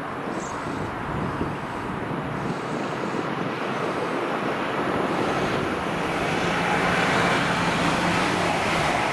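A train approaching on the main line, its noise growing steadily louder, with a steady low hum coming in about halfway through.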